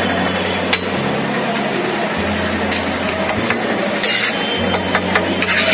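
Soya chunks frying in oil on a large flat griddle (tawa), a steady sizzle with a few scrapes of a metal spatula across the plate, over a low hum that comes and goes.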